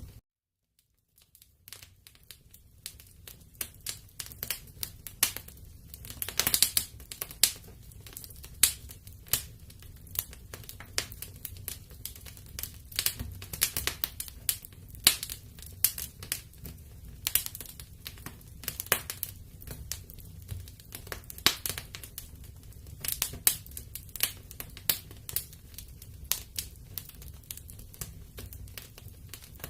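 Wood fire in a fireplace crackling, with irregular sharp pops and snaps over a low steady rumble of the flames. The sound drops out to silence just after the start and fades back in over the next couple of seconds.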